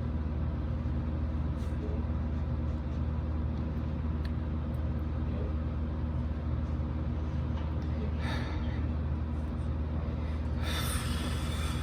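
Steady low hum of road vehicles, with a brief hiss about eight seconds in and a louder hiss of about a second near the end.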